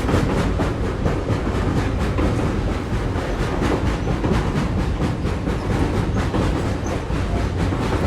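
Train running on the rails: a steady low rumble of wheels on track with a faint, quick repeating clatter.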